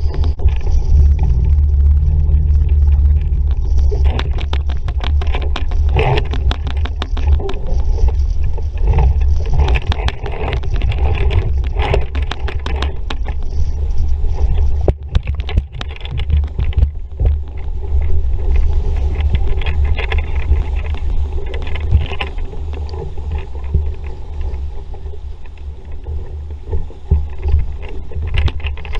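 Wind buffeting the microphone on a sailing dinghy under way in a stiff breeze, with water splashing and slapping against the hull and frequent short knocks.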